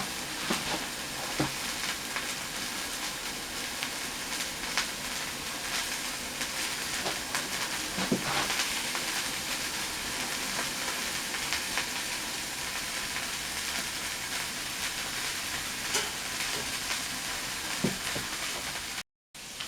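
Burger patty frying on a stove burner: a steady sizzle with scattered small pops. The sound drops out briefly near the end.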